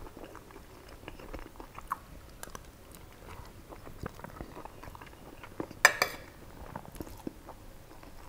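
Close-up chewing of a mouthful of mutton biryani, with many small wet mouth clicks. One sharp clink of a metal spoon against the plate about six seconds in.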